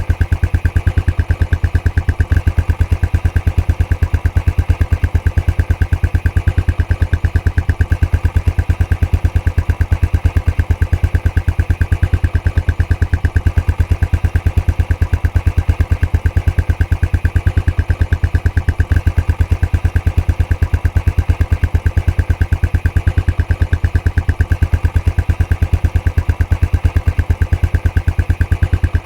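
Royal Enfield Classic 500's single-cylinder engine idling through its stock exhaust, a steady, even thump-thump beat that holds constant throughout.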